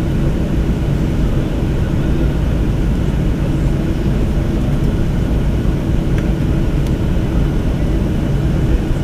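Boeing 737 cabin noise while the jet taxis to the gate on idling engines: a steady low rumble with a faint constant hum.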